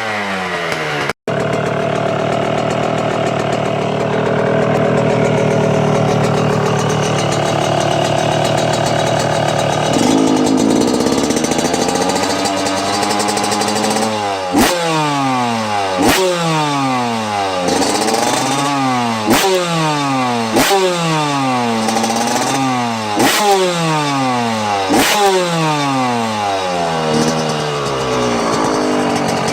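Yamaha YZ125 single-cylinder two-stroke engine running through an aftermarket exhaust. For the first half it is held at steady high revs. From about halfway it is revved in quick throttle blips, roughly one every second and a half, each rising sharply then falling away.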